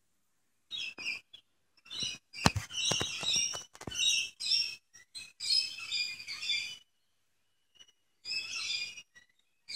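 Small songbird chirping and singing in short phrases. A few sharp knocks of handling on the microphone come about two and a half seconds in.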